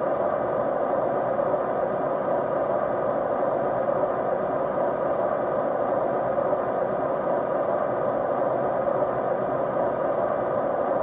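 Steady white noise: an even, unchanging mid-pitched rush.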